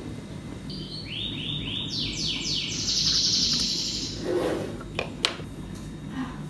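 A bird singing: a run of short high notes repeated about three times a second, then a fast high trill. Two sharp clicks follow about five seconds in, over a steady low hum.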